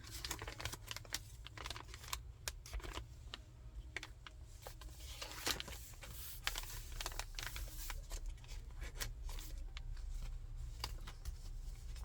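Paper pages of a thick handmade junk journal being turned and paper cards handled: irregular light rustles, flicks and small taps.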